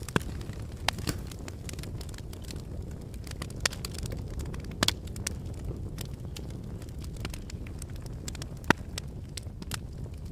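Logs burning in a fireplace: a steady low rumble from the fire with scattered sharp crackles and pops, the loudest pop near the end.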